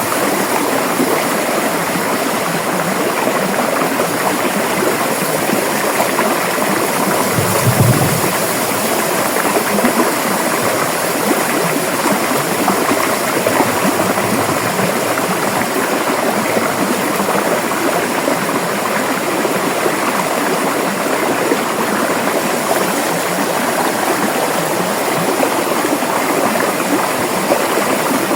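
River water flowing in a steady, even rush. A brief low thump about eight seconds in.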